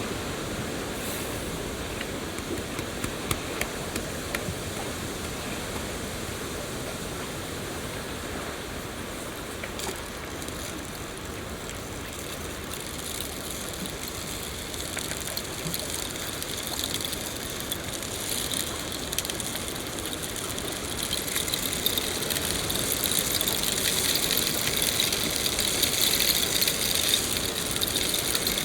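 Steady rain falling, a continuous hiss with scattered drop ticks, growing louder and brighter about three quarters of the way through.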